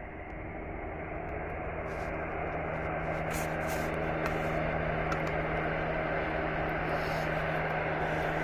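Aircraft engine drone with a steady low hum, growing steadily louder as the plane approaches. A few faint clicks sound over it.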